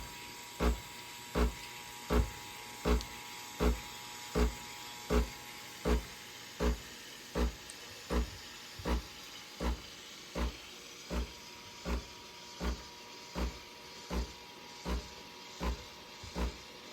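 Breville espresso machine's automatic steam wand frothing and heating whipping cream: a steady steam hiss with a regular low thump about every three-quarters of a second and a faint steady tone.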